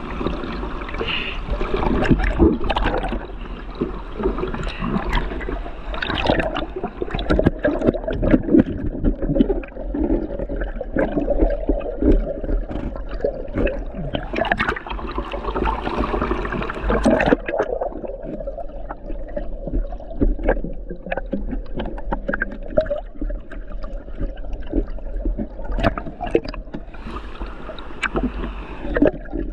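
Water splashing and gurgling, with many irregular knocks and splashes.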